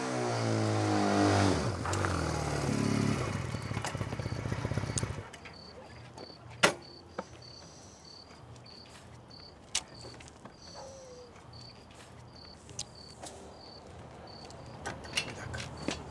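Music ending about five seconds in, then crickets chirping steadily, about two or three chirps a second, with a few sharp clicks.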